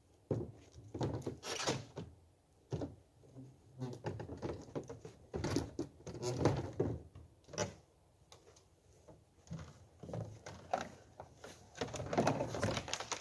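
Irregular knocks, clunks and rustling of fishing gear being handled as a setup is put together.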